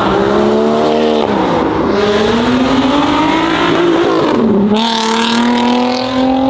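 A performance car engine revving hard under load. Its pitch arches up and down, climbs steadily for a couple of seconds, drops sharply about four and a half seconds in, then climbs again.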